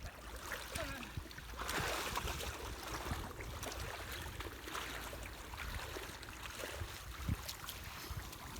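People wading through shallow creek water, with sloshing and splashing, a louder stretch of it about two seconds in, and scattered small knocks.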